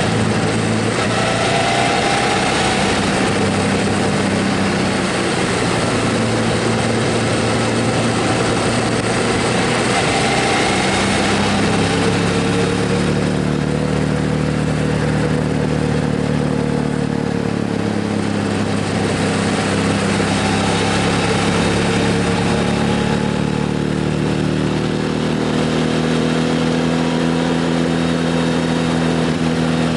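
Motorcycle engine running under way, its note rising and falling a few times with throttle and gear changes, over a steady rush of wind noise.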